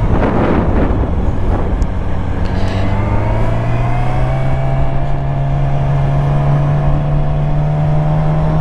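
Yamaha R6 sport bike's inline-four engine running under way, its note rising slowly and steadily as the bike gains speed, with a rush of noise in the first second.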